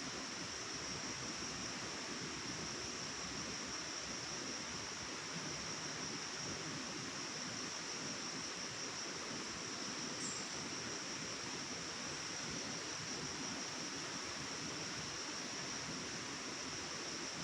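Forest ambience: the steady rush of flowing water under a constant high-pitched drone, with one short high chirp about ten seconds in.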